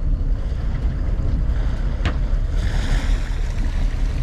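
Sport-fishing boat underway: a steady low rumble of motor and wind buffeting the microphone, with water rushing past the hull. A sharp knock about two seconds in, followed by a second-long hiss of spray.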